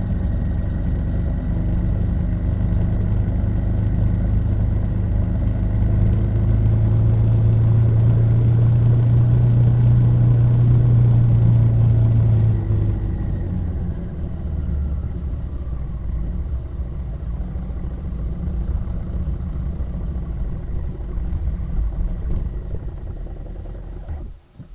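Motor vehicle engine running steadily while under way. Its note holds louder for several seconds, drops about halfway through as the throttle eases, and the sound cuts off abruptly just before the end.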